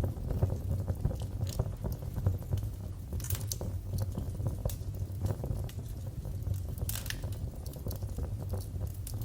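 Wood fire crackling in a fireplace: a low steady rumble of flames with many small crackles and a few sharper pops, around three seconds in, near seven seconds and at the end.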